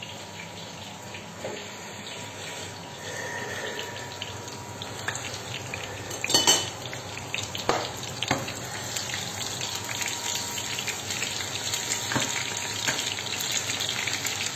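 Eggplant cubes frying in hot oil in a pan: a steady sizzle with scattered pops, growing louder about three seconds in. A sharp knock about six seconds in is the loudest sound.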